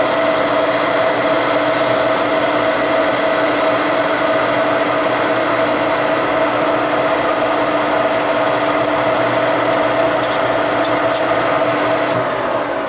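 Metal lathe running steadily with a steady whine from its drive, with a few light sharp clicks about two thirds of the way in. Near the end the machine starts to wind down.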